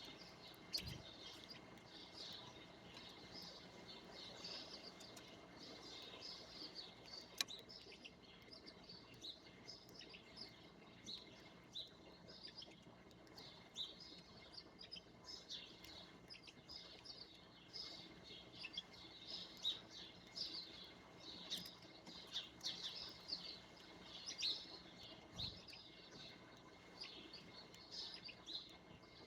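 Small songbirds chirping continuously, a dense chatter of short high chirps, with one sharp click about a quarter of the way in.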